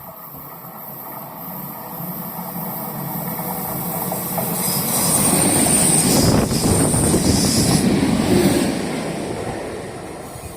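A train passing on the rails. The rumble builds, is loudest from about halfway to three-quarters of the way through, then fades as it goes away, with a high hiss over the loudest part.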